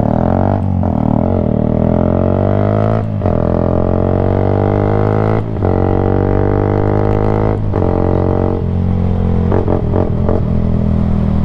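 Yamaha sports bike engine running very loud through a Black Widow end can with no baffle and the rest of the exhaust removed, a steady drone that breaks off briefly about every two seconds.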